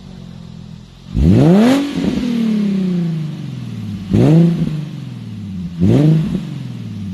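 Infiniti G37x's 3.7-litre V6 running with its mufflers removed (muffler delete), idling and revved three times. The first blip, about a second in, is the longest and falls back slowly. Two short, sharp blips follow, about four and six seconds in.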